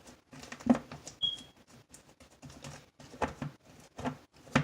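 Borax-free glue slime being gathered and pressed into a plastic container: irregular sticky squelches and clicks, with one short high squeak about a second in.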